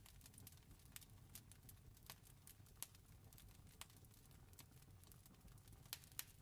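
Wood fire crackling: irregular sharp pops and snaps, a few louder ones, over a soft low rumble of the flames.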